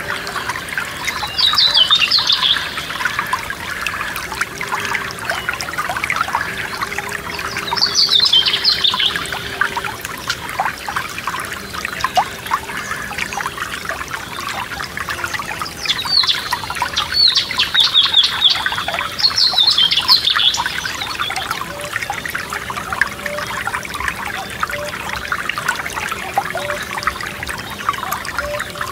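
Small forest stream trickling and gurgling steadily. A songbird sings short trilled phrases every few seconds, several of them close together past the middle.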